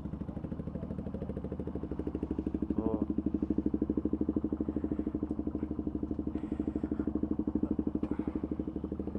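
Motorcycle engine running at a steady low speed, its exhaust beat pulsing evenly with no revving; it grows a little louder for a few seconds mid-way.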